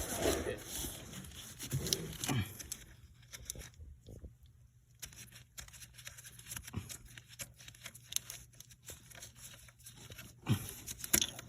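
Scattered light clicks and knocks of a wrench working on the 16 mm fitting of a power steering high-pressure line, with a muffled voice in the first couple of seconds and a louder clatter near the end.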